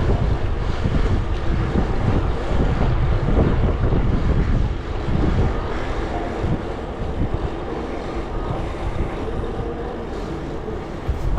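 Wind buffeting the microphone on a moving bicycle: a steady, loud low rumble of wind noise.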